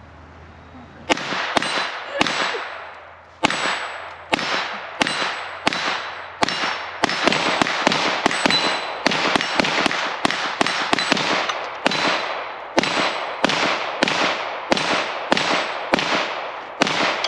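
Rapid handgun fire from two shooters at once: about three dozen sharp shots, starting about a second in, sometimes overlapping and densest in the middle, until near the end.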